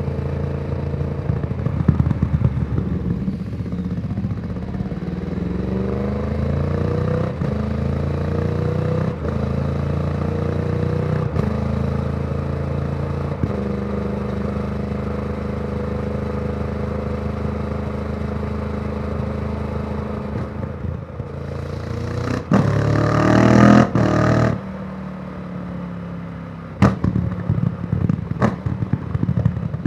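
2014 Yamaha YZF-R1's crossplane inline-four through a Yoshimura exhaust, with its uneven, twin-like beat, pulling up through several gear changes in the first dozen seconds, then holding a steady cruise. Near the end it revs hard and loud for about two seconds, cuts off, and gives a few sharp short throttle blips.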